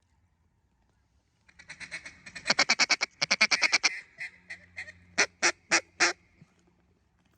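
Mallard duck call blown in a fast chuckling feed call, followed by a few scattered quacks and then four loud, longer quacks.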